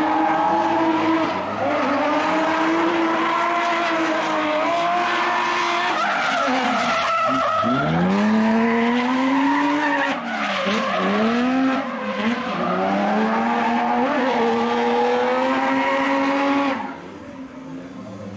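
Drift car's engine running at high revs through a slide, with tyre squeal. About seven seconds in the revs drop sharply and climb back up, dip twice more briefly, then the sound falls away near the end.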